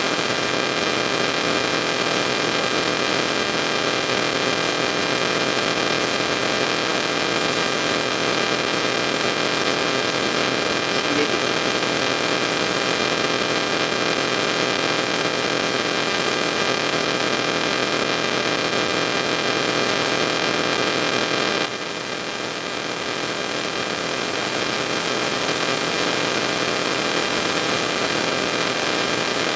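Steady electrical hum and hiss, with several constant whining tones. About two-thirds of the way through it drops suddenly, a little quieter, then slowly builds back up.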